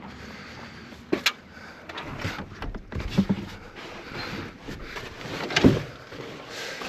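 Camp gear being handled, likely a folding table being fetched: a string of separate knocks and clunks with rustling between them, the loudest a little past halfway.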